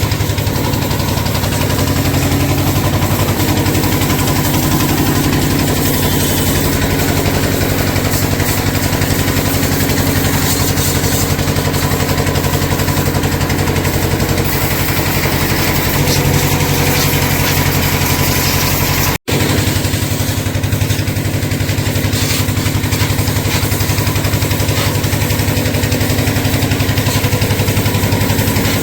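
A motor running steadily with an even low hum and a hiss over it, cut off for an instant a little past two-thirds of the way through.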